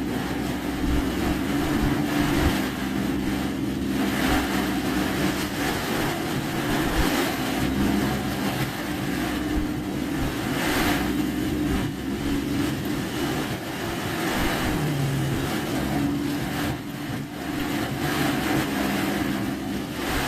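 Car driving in a typhoon downpour: the engine runs steadily under a constant hiss of heavy rain and tyres on the waterlogged road, with louder swells of hiss every few seconds.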